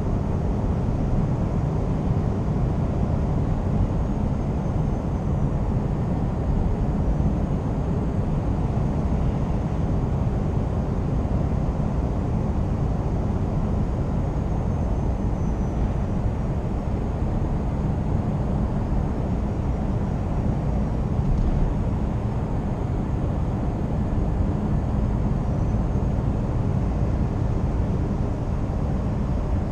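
Scania R490 truck driving at steady speed: a continuous low drone of its 13-litre inline-six diesel engine and tyre and road noise, with no gear changes or sudden events.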